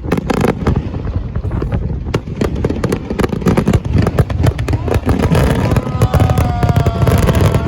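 Fireworks display going off in rapid, overlapping bangs and crackles. Near the end, a few drawn-out falling tones sound over the bangs.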